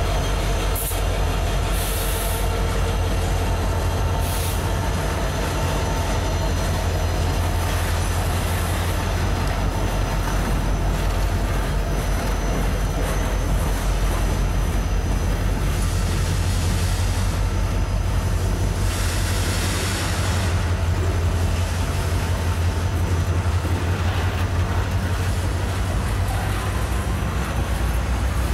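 Heavy freight cars of a high-and-wide train rolling past, with a steady rumble of wheels on the rails. A few brief high-pitched wheel screeches rise above it now and then.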